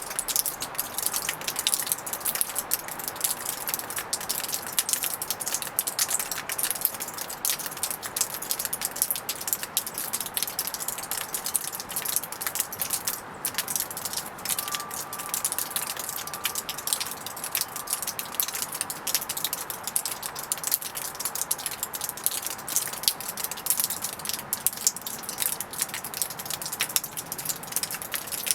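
Small birds pecking and cracking seed at a feeder: a dense, continuous run of quick light clicks and rattles.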